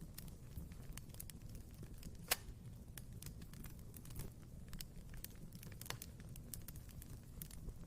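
Wood fire burning in a fireplace: frequent small crackles and snaps over a low steady rumble of the flames, with one sharp loud pop a little over two seconds in and another near six seconds.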